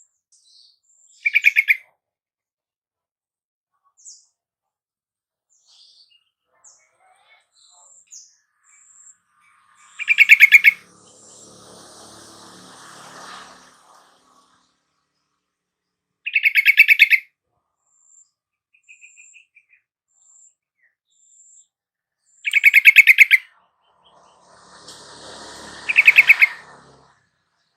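Yellow-vented bulbul (trucukan) song: five short, loud bursts of rapid bubbling notes, spaced several seconds apart, with faint high chirps in between.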